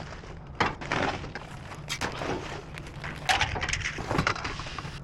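Debris being rummaged through in a dumpster: irregular clatter, knocks and scraping of scrap being shifted and pulled about, busier in two stretches.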